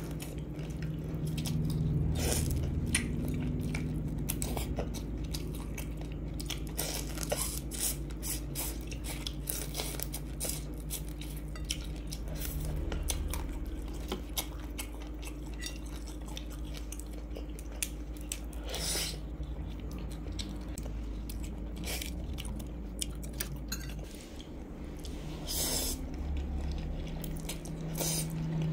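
Close-up eating sounds: wet chewing with many small smacks and clicks as prawn meat and instant noodles are eaten, and an occasional clink of a metal fork against the ceramic bowl. A steady low hum runs underneath.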